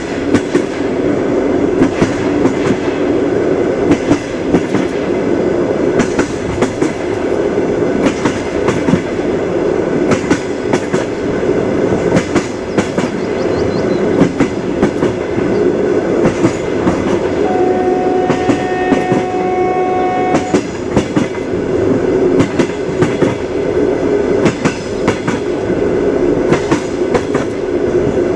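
Train wheels clattering over rail joints: a steady rumble of a moving train with repeated clickety-clack knocks. Just past the middle a steady tone with overtones sounds for about three seconds.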